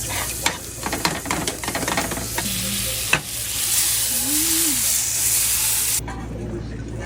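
Eggs sizzling in a hot frying pan while a utensil stirs and scrapes them, with quick clicks and scrapes over the first three seconds. The sizzle cuts off suddenly about six seconds in.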